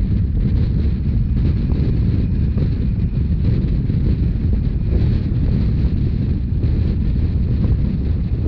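Wind buffeting the microphone over the steady low rumble of a narrow-gauge train running along the track.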